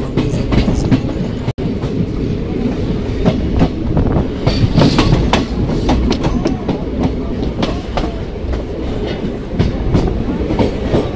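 Passenger express train in motion, heard from inside a coach at an open window: a steady rumble of running gear with the clickety-clack of wheels over rail joints.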